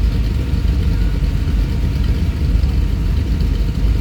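Car engines idling: a steady low rumble.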